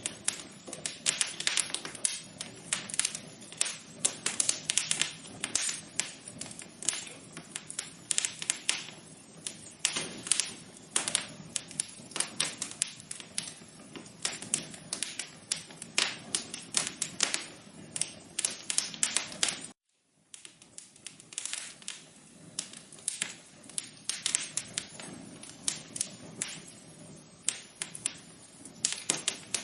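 Wood fire crackling: a dense, irregular run of sharp pops and snaps over a soft steady hiss. The sound cuts out completely for a split second about twenty seconds in, then the crackling resumes.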